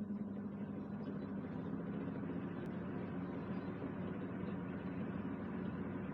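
Omega exhaust fan running at a steady speed: a low motor hum under a steady rush of air.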